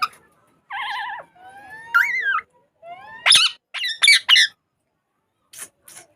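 Pet parrot calling: a warbling whistle about a second in, a rising-and-falling whistle, then a quick run of short, sharp high-pitched calls.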